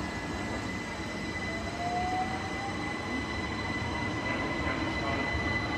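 Class 375 electric multiple unit running through the station with a steady rumble and a steady high whine, plus a short rising tone about two seconds in.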